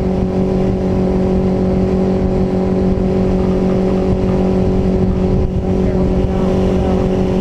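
Mercury outboard motor running flat out at about 5,300 rpm during its break-in, a steady unchanging drone, with wind rumble on the microphone.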